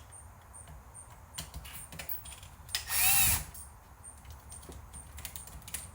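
Small power screwdriver runs in one short burst of about half a second, about three seconds in, backing out a screw from the VCR's tape loading mechanism, its motor pitch rising and falling. Light clicks of the screwdriver and parts being handled come before and after.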